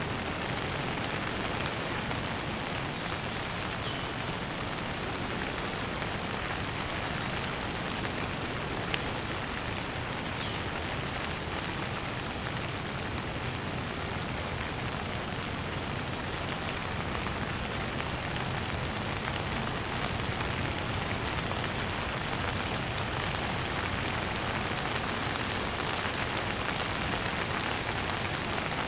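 Steady rain falling on surfaces as an even hiss, with a few faint high bird chirps.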